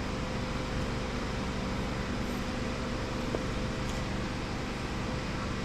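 Steady mechanical hum with a constant low drone and no change across the few seconds.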